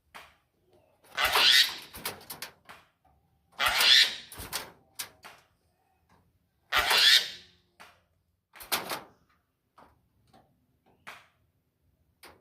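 A jalak, a kind of starling, giving three loud, harsh screeching calls a few seconds apart, with shorter clicks and chattering notes between them.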